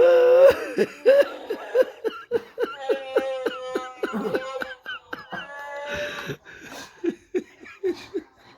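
A woman laughing hard in many short, quick bursts, with some high squealing tones, fading toward the end.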